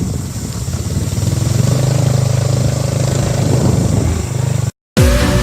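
Motorcycle engine running steadily while riding along. Near the end it cuts off abruptly and electronic music begins.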